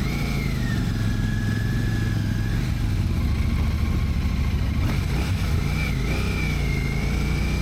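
Motorcycle engine running steadily under way, its note shifting slightly, with a thin high whine that wavers above it.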